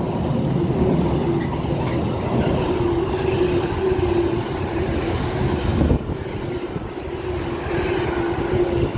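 Intermodal freight train's wagons, hauled by two Class 90 electric locomotives, rolling past at speed: a steady rumble of wheels on rail with a held whine underneath. The sound dips briefly about six seconds in.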